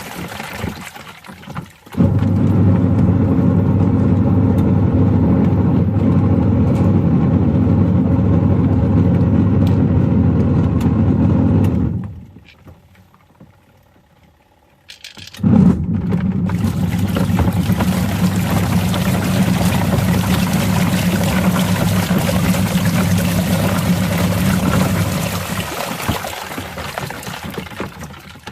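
Washing machine running with toy tools tumbling in the drum: a steady motor hum with rattling over it. It starts abruptly about two seconds in, stops for about three seconds midway, starts again and fades near the end.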